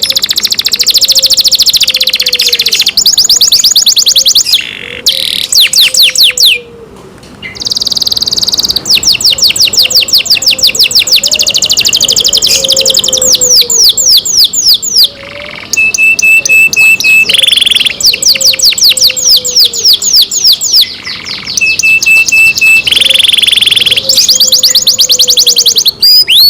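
Domestic canary singing a long song of fast rolling trills, each roll a rapid string of quick down-sweeping notes, with a few short steady whistled notes in between. The song stops briefly about seven seconds in, then runs on.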